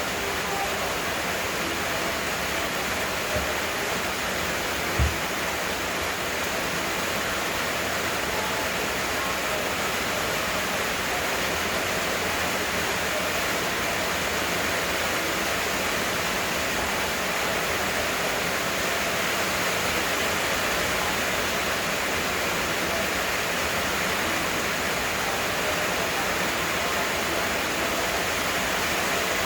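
Heavy rain falling steadily in a dense, even hiss. Two brief low thumps come about three and five seconds in.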